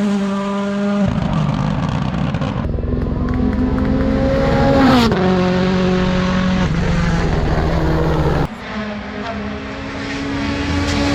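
WRC Rally1 rally cars' 1.6-litre turbocharged four-cylinder engines at full throttle: engine pitch climbs under acceleration and drops in steps at each upshift. The sound cuts abruptly a little over eight seconds in, then another run builds in pitch.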